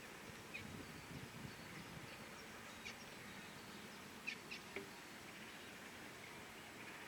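Faint steady outdoor background noise with a few short, high bird chirps, the loudest cluster about four to five seconds in.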